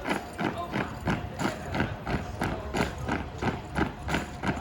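An armed drill team's rifle slaps and foot stomps in unison: a steady rhythm of sharp claps and thuds, about three a second.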